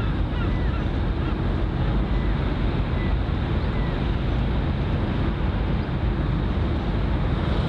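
Steady wind on the microphone over a low rumble and water rush, with a few faint short chirps in the first half.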